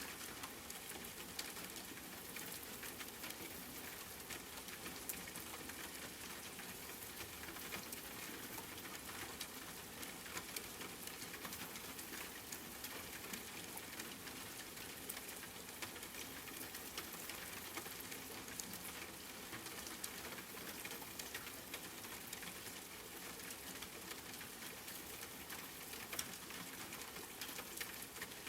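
Steady rain: a continuous even hiss scattered with many small drop ticks.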